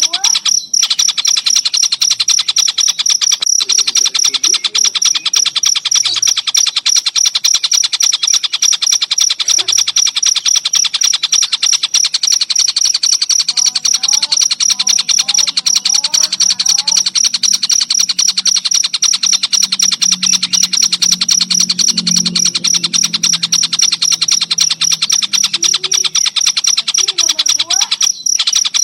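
Crickets (jangkrik) chirping in a fast, even pulse throughout, with tengkek buto kingfisher calls over them: short rising and falling whistles now and then, and a stretch of lower warbling calls in the middle.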